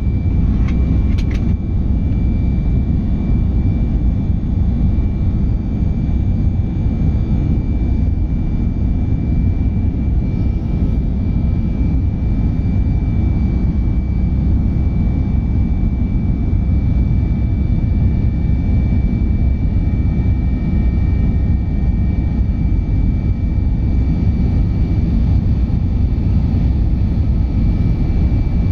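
Airbus A319-111 heard from inside the passenger cabin, its CFM56 jet engines and the airflow making a loud, steady deep rumble with a thin whine held over it. A couple of faint clicks come about a second in.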